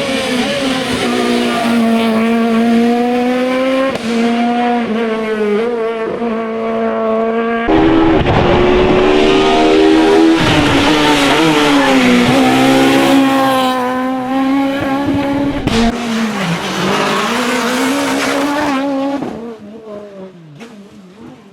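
Super 1600 rally cars at full attack, their high-revving 1.6-litre four-cylinder engines rising and falling in pitch through gear changes and lifts, with tyre noise. The sound changes abruptly about 8 and 16 seconds in, and dies away over the last couple of seconds.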